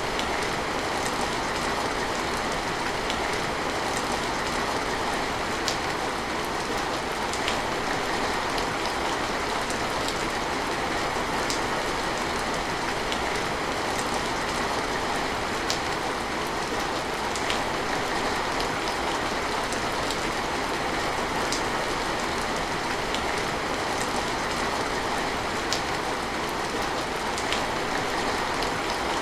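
Steady heavy rain falling as an even hiss, with occasional distinct drop impacts ticking through it.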